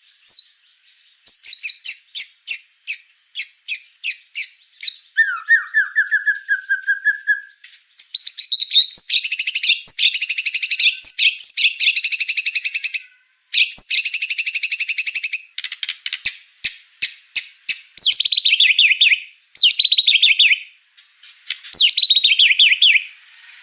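White-rumped shama (murai batu) in full, vigorous song: a run of rapid whistled phrases that switch between repeated clear notes, a lower series of falling notes, fast dense trills and a string of descending sweeps, with short pauses between phrases.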